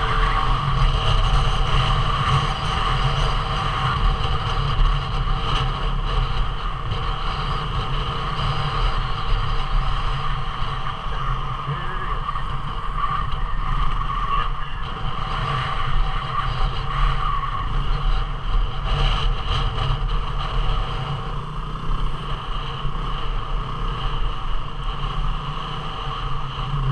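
250 cc single-cylinder dual-sport motorcycle engine running at a fairly steady pace while riding a trail, with only small rises and dips in throttle.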